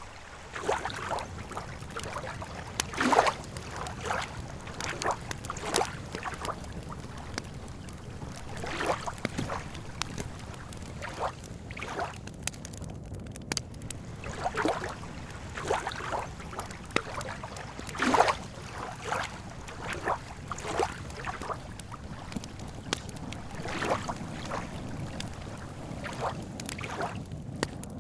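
Lake water lapping at the shore, with irregular small splashes every second or two over a steady low rumble.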